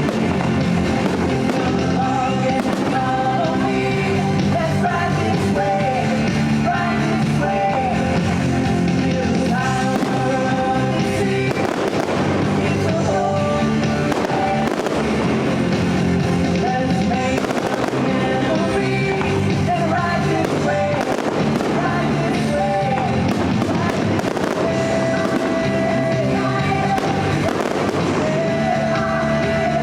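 A fireworks show: sharp bangs and crackles of fireworks bursting at irregular intervals over a loud, continuous music soundtrack.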